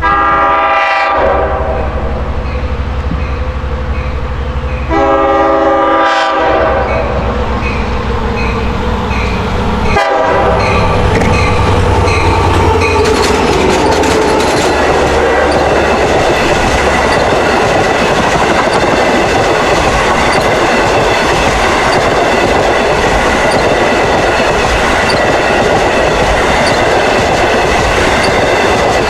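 DM30AC diesel locomotive horn sounding two blasts for a grade crossing, the second longer, over a steadily ringing crossing bell. About ten seconds in, the twelve-car passenger train arrives and runs past with loud, steady wheel and rail noise.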